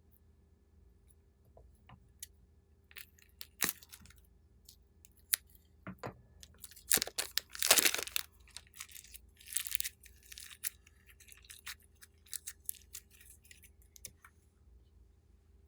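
Slime being worked by hand, giving irregular sticky clicks and crackles. They start about three seconds in, come thickest and loudest around the middle, and thin out near the end.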